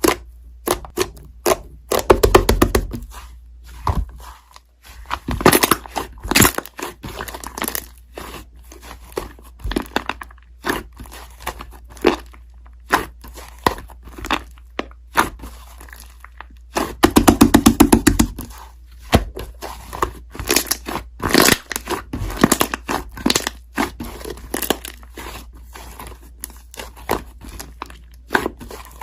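Slime being squeezed, pressed and poked by hand: sticky crackling and popping clicks of trapped air. There are two dense runs of rapid pops, about two seconds in and again around seventeen seconds.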